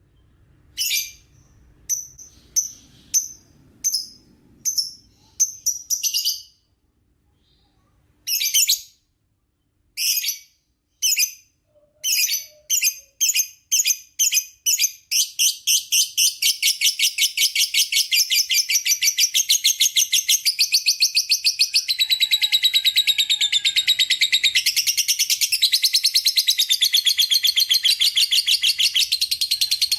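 A lovebird singing in shrill chattering phrases. At first it comes as short separated bursts; from about halfway it runs into one long, unbroken rapid chatter, the "ngekek panjang" (long ngekek) song.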